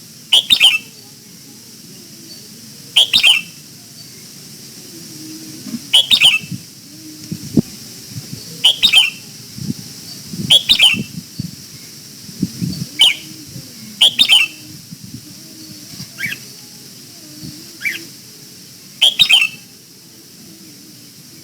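Red-whiskered bulbul giving short, sharp calls about every two to three seconds, around ten in all.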